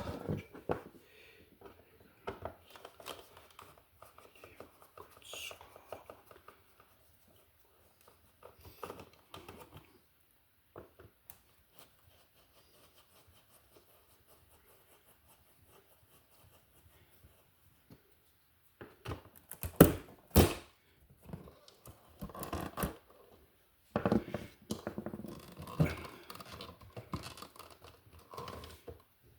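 Intermittent clicks, scrapes and rustling of hand-tool work on an electrical wall box and receptacle, with a quiet spell in the middle and a cluster of sharp clicks a little past halfway.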